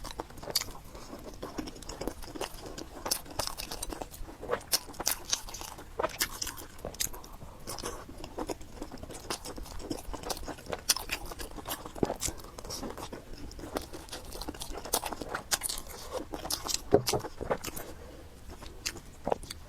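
Close-miked eating sounds: a person chewing and slurping fried noodles with pork, with many short, irregular wet smacks and crunches.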